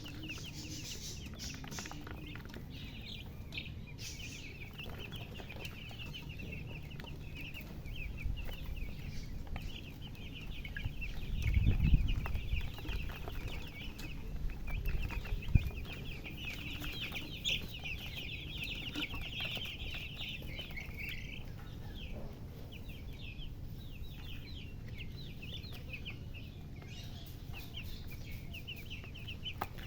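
A brood of baby chicks peeping continuously, many short high peeps overlapping, busiest in the middle stretch. A low rumble runs underneath, with a loud knock a little before the middle and another soon after.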